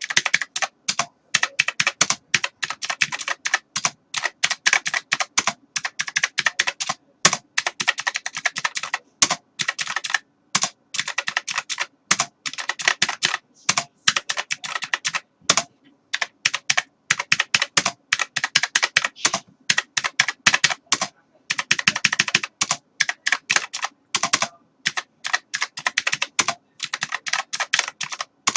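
Computer keyboard being typed on fast: dense runs of key clicks broken by brief pauses every second or two.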